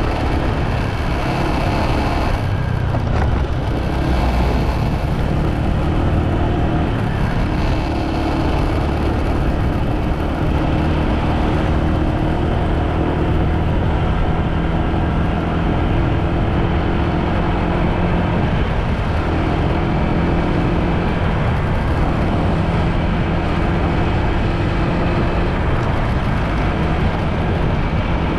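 Motorbike engine running at a steady cruising speed, with road and wind noise, its pitch shifting a little now and then.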